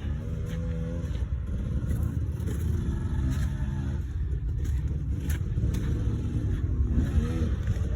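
Dirt bike engine running over a steady low rumble, its pitch rising and falling as it is revved up and backed off several times, with scattered short knocks.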